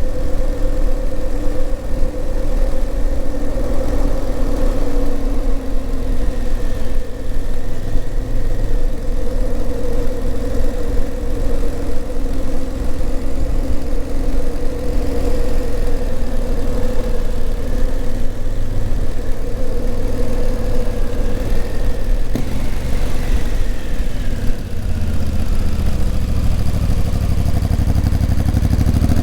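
Honda CRF1000L Africa Twin's 998 cc parallel-twin engine running steadily as the motorcycle rides along. Its pitch drops about 23 seconds in as the bike slows, then climbs again near the end as it accelerates.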